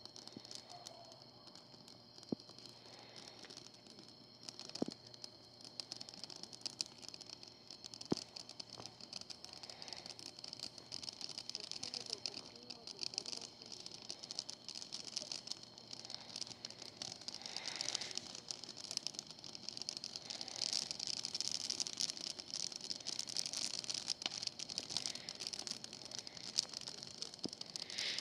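Bonfire crackling and popping, a dense run of small irregular snaps with a few sharper pops, growing louder and busier over the second half.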